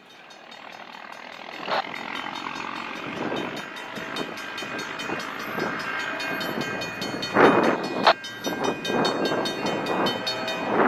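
A train approaching in the distance, growing gradually louder, with wind gusting on the microphone from about seven seconds in and two sharp knocks.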